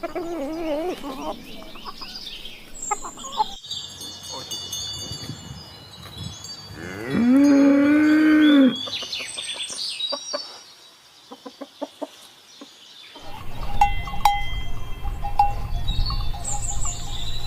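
Farm animal sounds: a cow moos once, long and loud, about seven seconds in, with chicken clucks and other short calls around it. From about two-thirds of the way through, a ringing clinking like a cowbell repeats over a low rumble.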